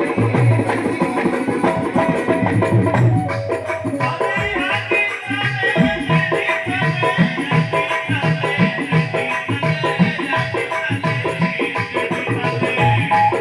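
Rajasthani devotional folk music: a regular drum beat with rattling, shaker-like percussion under held melody notes.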